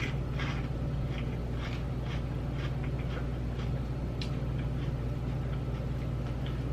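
Close-miked chewing of dill pickle potato chips: crunches about twice a second, growing softer, over a steady low hum.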